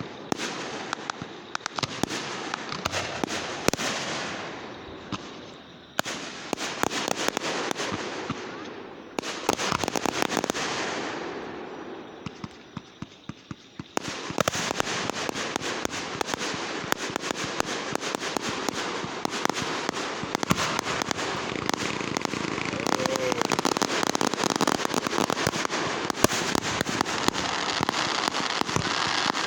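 Fireworks going off: a quick run of bangs and crackles, with several hissing bursts that fade away. About halfway through it turns into a dense, unbroken crackle.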